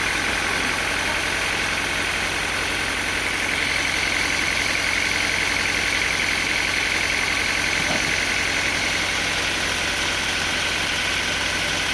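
Sawmill machinery running steadily, a constant engine-like hum with no change in load.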